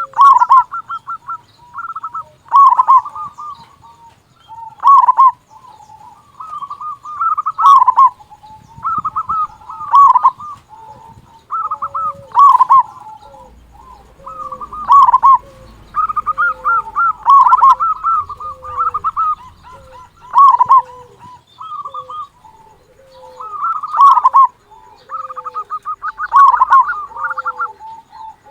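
Zebra dove (perkutut) singing its cooing song over and over. Each phrase is a quick run of short notes ending in one loud note, repeating about every two to two and a half seconds, with fainter lower coos between phrases.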